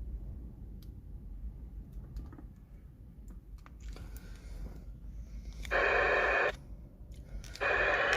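Low wind rumble on the microphone with a few faint clicks, then two abrupt bursts of hiss from the CB radio's speaker, one just under a second long about six seconds in and another starting near the end.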